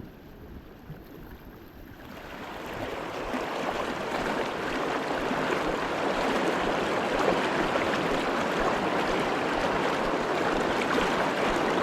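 River rapids rushing, a steady wash of whitewater that swells over the first few seconds and then holds steady.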